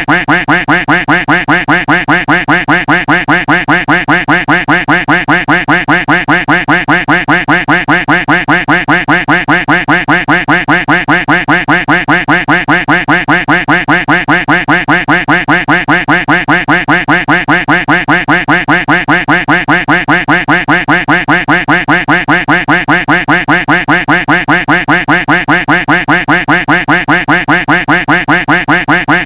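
A duck quack sound effect looped without a break, the same quack repeating rapidly at an even pace.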